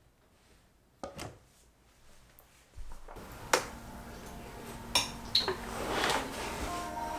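A few sharp clicks and knocks of objects being handled, over a steady low hum that sets in about three seconds in.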